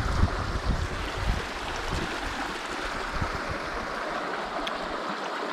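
Steady rushing of a small stream running over rocks, with low, uneven rumbling over the first few seconds that eases off.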